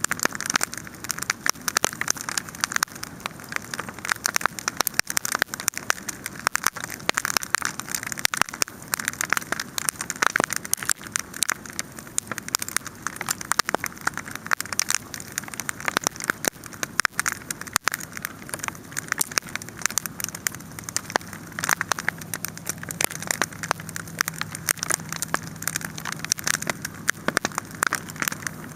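Wood campfire crackling steadily, a dense run of sharp pops and snaps over a hiss. A faint low hum joins about twenty seconds in.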